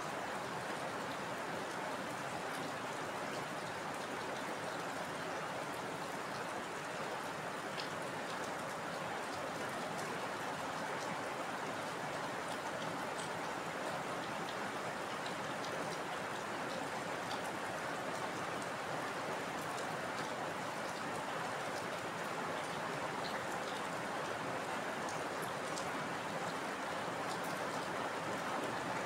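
Heavy rain falling steadily: an even hiss with scattered sharp drop ticks, growing slightly louder near the end.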